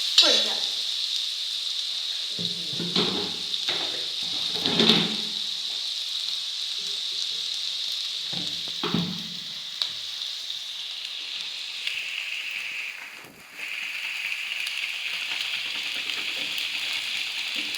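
Sliced onions and shallots frying in coconut oil in a pan, a steady sizzle with a spoon stirring and knocking against the pan a few times. About two-thirds of the way through the sizzle briefly drops away, then comes back a little lower.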